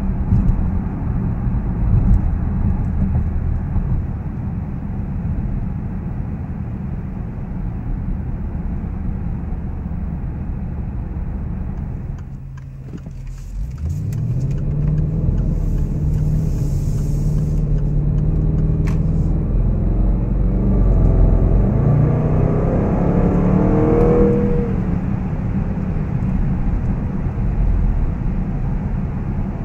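Range Rover Sport's supercharged 5.0-litre V8 heard from inside the cabin over road noise. It cruises steadily, eases off briefly a little before halfway, then accelerates with rising pitch. A second, stronger climb drops off suddenly at a gear change about three-quarters of the way through.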